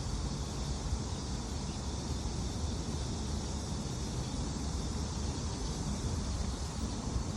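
Steady outdoor ambience: wind buffeting the microphone in a low rumble, under an even, unchanging high hiss.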